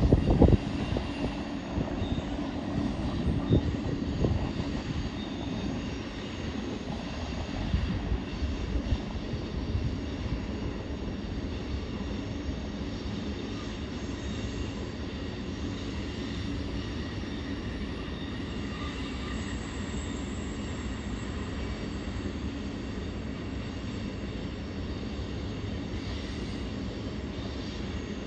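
Long freight train of tank cars running in the canyon below, heard from a distance as a steady low rumble. Some irregular louder bumps in the first ten seconds.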